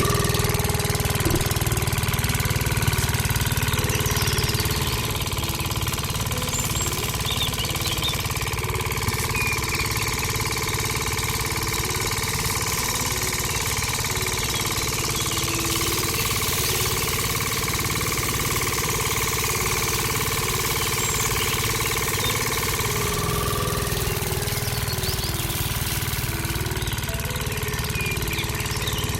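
Engine running steadily with a fast, even knocking beat, like a small tractor engine.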